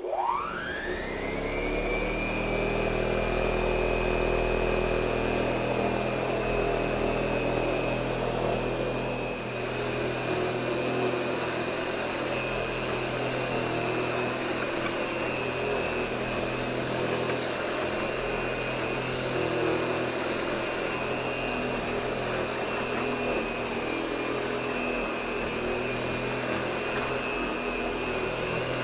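A 1926–29 Hoover Model 700 upright vacuum cleaner switched on: its motor whines up to speed over about a second and a half, then runs steadily with a high whine over its hum.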